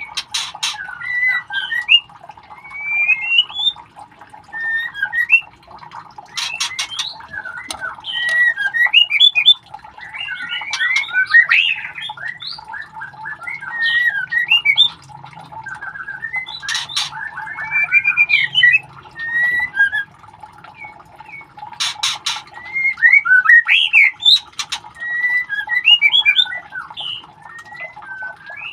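White-rumped shama chick calling over and over in short, quick squawks and chirps that slide up and down in pitch, with a few sharp clicks among them.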